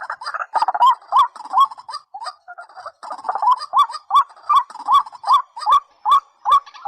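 Waterbird (rail) calls, of the kind played to lure white-breasted waterhens: a fast run of short notes, each rising in a hook, about three a second, breaking off briefly about two seconds in and then resuming.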